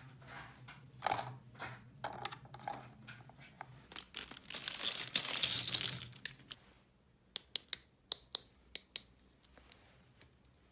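Hands crinkling and tearing packaging for about six seconds, loudest just before the middle, then a run of about eight sharp plastic clicks as small toy pieces are handled and set down.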